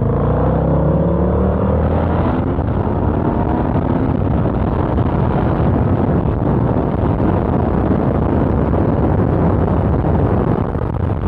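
Motorcycle engine accelerating, its pitch rising over the first two or three seconds, then buried under a steady rush of wind on the microphone at riding speed.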